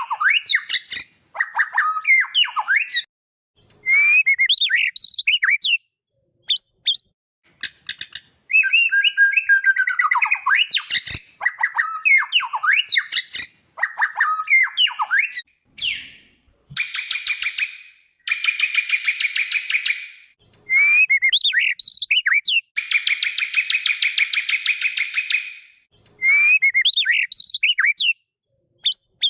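White-rumped shama (murai batu) singing: quick bursts of varied whistles and sharp chirps with short pauses between phrases. From about halfway in, these alternate with long, rapid buzzing trills of two to three seconds each.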